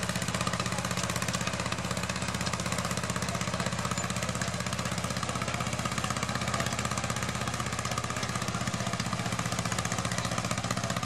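Antique tractor engine running steadily, with rapid even firing pulses.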